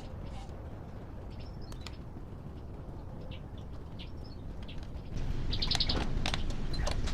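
Birds chirping in short high calls over a steady low rumble, which gets louder about five seconds in.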